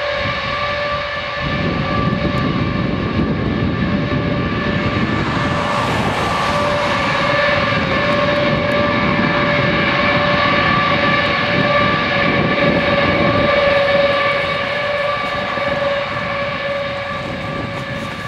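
Lockheed C-5A Galaxy's four General Electric TF39 turbofans running: a steady high whine of several tones, with a deep rumble that comes in about a second and a half in and builds, loudest a little before the end, then easing.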